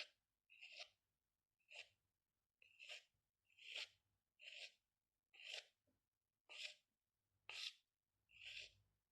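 Faint pen or pencil strokes scratching on paper, a short stroke about once a second, some nine in all.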